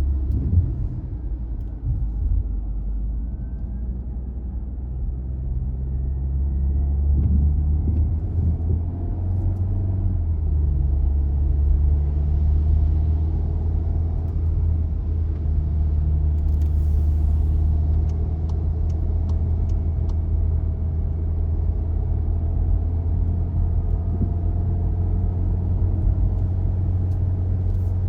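Car driving on the road: a steady low rumble of engine and tyres, with a few faint ticks about two-thirds of the way through.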